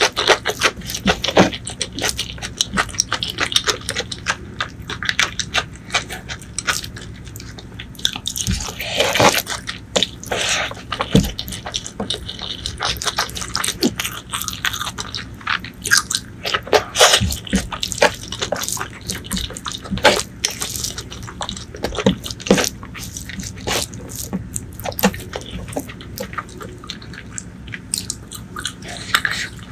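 Close-miked eating by hand: wet chewing and smacking of rice and spicy eggplant curry, a dense run of irregular clicks and soft crunches, with fingers squishing the saucy curry and rice.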